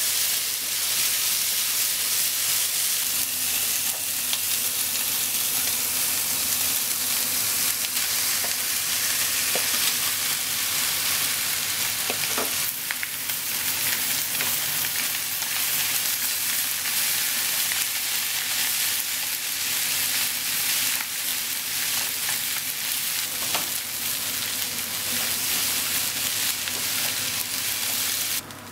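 Pork, carrots, potato and rice sizzling steadily as they are stir-fried in a hot frying pan over a gas flame. A few light clicks come from the chopsticks striking the pan.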